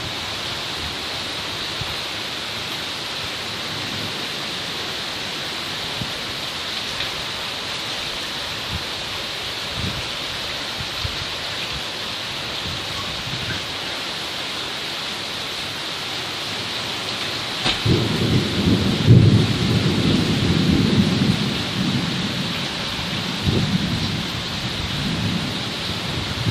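Rain falling steadily, then about two-thirds of the way through a sharp crack of thunder followed by a long, low rolling rumble.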